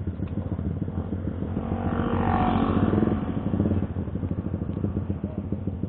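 Motorcycle engine running with a rapid steady pulse, swelling louder for about two seconds in the middle.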